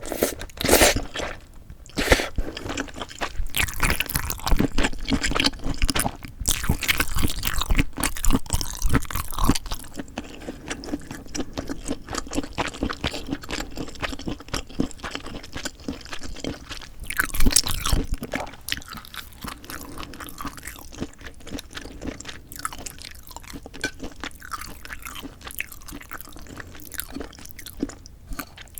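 Close-miked eating sounds: chewing and biting with crisp crunches, dense and loud for the first ten seconds or so, with one loud burst a little past the middle, then softer, steady chewing.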